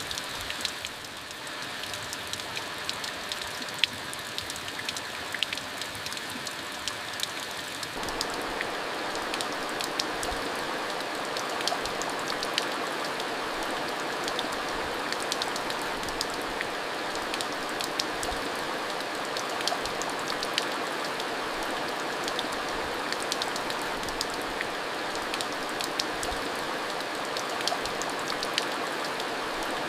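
Steady monsoon rain falling, with many individual drops clicking among the hiss; it grows louder and fuller about eight seconds in.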